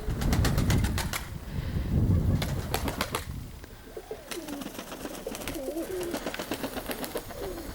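Domestic pigeons cooing, with a run of sharp clicks and taps in the first few seconds. Wavering low coos follow from about four seconds in.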